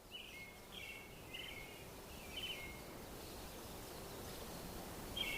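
Short, buzzy chirping calls from a small animal, in quick groups of notes: a few in the first two and a half seconds, then another group near the end, over a faint steady outdoor background hiss.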